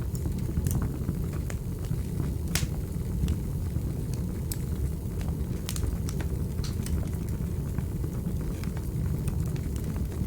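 Wood fire burning in a fireplace: a steady low rumble with scattered sharp crackles and pops. The loudest pop comes about two and a half seconds in.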